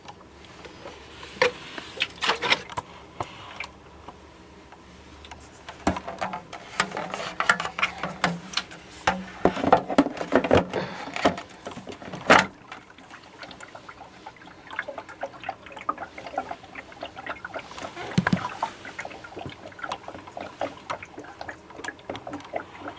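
Plastic parts of a tower humidifier being handled and fitted together: irregular clicks, knocks and rattles, heaviest in clusters near the start, through the middle and again later on.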